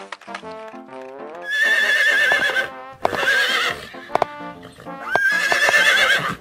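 Horse whinnying three times, each a loud, trembling high-pitched call lasting about a second, over light background music.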